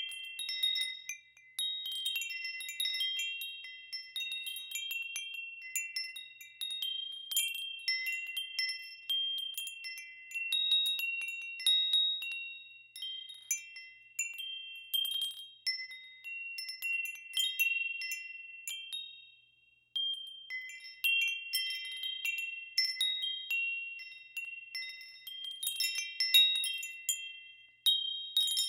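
Wind chimes ringing, several high notes struck at random in loose clusters, each ringing on and fading. There are brief lulls about a second and a half in and again about twenty seconds in.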